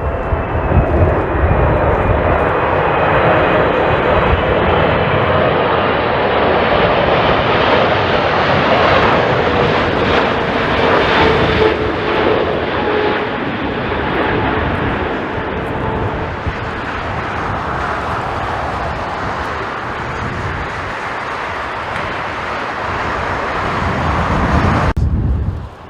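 Jet airliner engines passing close by, a loud steady noise with a whine that slowly falls in pitch, then easing off. Gusty wind buffets the microphone early on, and the sound cuts off abruptly near the end.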